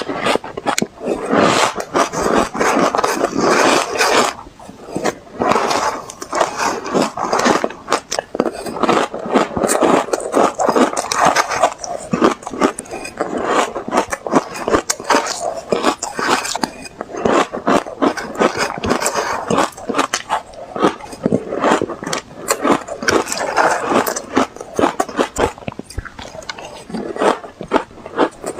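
Close-miked crunching of ice being bitten and chewed: a dense, continuous crackle of sharp cracks and snaps, with a short lull about four seconds in.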